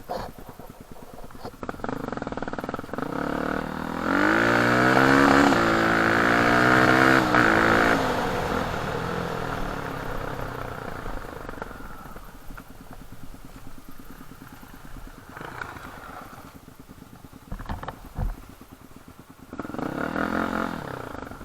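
Off-road dirt bike engine under way, revved hard for about four seconds with the pitch climbing and wavering, then easing off and running more quietly, with another short burst of throttle near the end.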